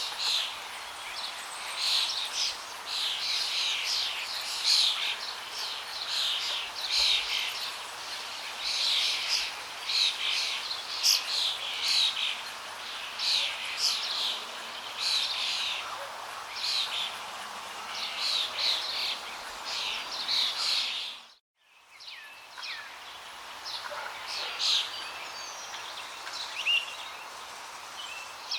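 Many small songbirds chirping and singing in quick, overlapping phrases over a steady rush of flowing water. All sound cuts out for about half a second about three quarters of the way through, then resumes.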